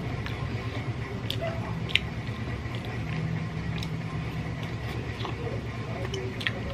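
Close-up eating sounds of roast chicken (lechon manok) eaten by hand: meat torn from the bone, then bitten and chewed, with short sharp mouth clicks and lip smacks, three of them standing out. A steady low hum runs under it.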